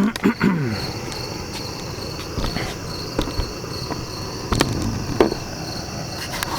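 Crickets chirping in a steady, high, pulsing trill over a constant low rushing noise, with a few scattered knocks and clicks.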